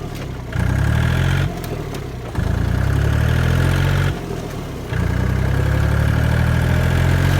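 Tractor diesel engine pulling hard under throttle, with three brief drops in sound as the throttle is let off for gear changes: short shifting to make it blow black smoke.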